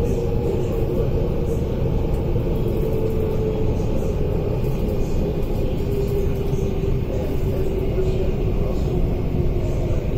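Inside a carriage of an MTR SP1900/1950 (IKK) electric train: the steady rumble of the running train, with a motor whine that slowly falls in pitch as the train slows for a station.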